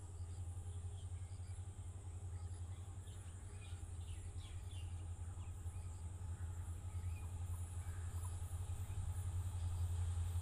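Low, steady rumble of a distant diesel locomotive approaching along the track, slowly growing louder, with birds chirping now and then.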